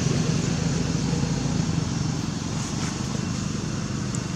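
A steady low rumble with fast, even pulsing, like a small motor running, under an even hiss.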